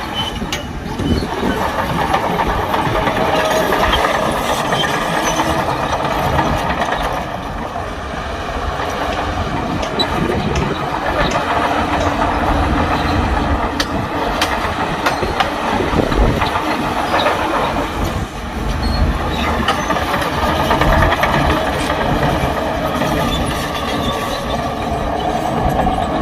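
Diesel bulldozer working, its engine running under load while the steel tracks clank and clatter continuously.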